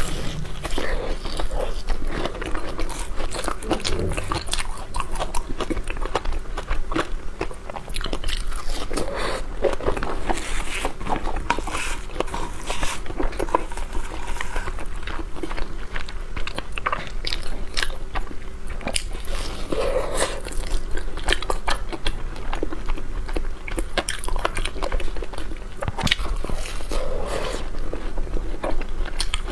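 Close-miked biting and chewing of a snow taro paste dessert with egg yolk filling: a dense, continuous run of small mouth clicks.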